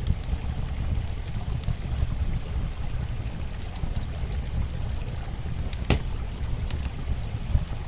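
Campfire crackling over steadily running water: a continuous low rush of flowing water with scattered sharp pops and snaps from the burning wood, one louder pop about six seconds in.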